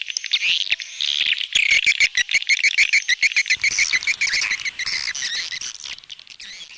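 Swiftlet lure-call recording: edible-nest swiftlets twittering in dense, rapid high chirps mixed with quick clicks, the sound played in swiftlet houses to draw the birds in to nest. It fades out near the end.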